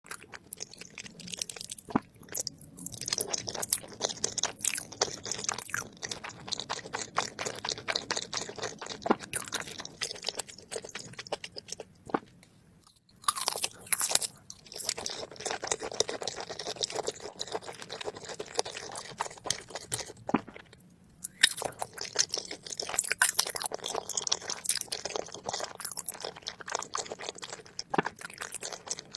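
ASMR eating sounds: crunchy chewing and biting of food, a dense crackle of bites and chews that stops briefly twice, about 12 and 20 seconds in.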